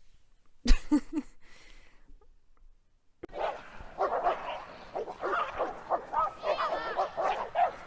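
A dog barking and yipping in quick succession, with some whining high-pitched calls. It is preceded, about a second in, by a short burst of sharp sounds.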